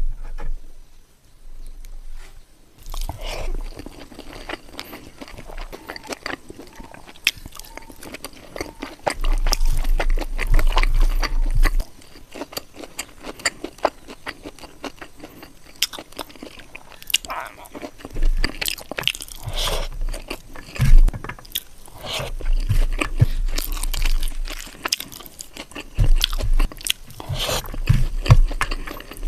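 Close-miked eating of pork curry, beans and potato chutney: steady chewing, biting and crunching with many small mouth clicks, coming in a few louder stretches of heavier chewing.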